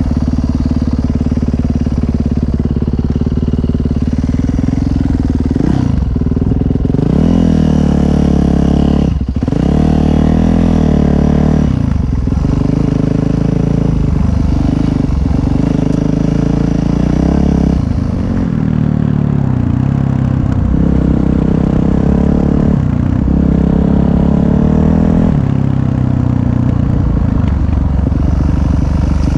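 Dirt bike engine running hard under way, its revs climbing and then dropping sharply half a dozen times with throttle and gear changes.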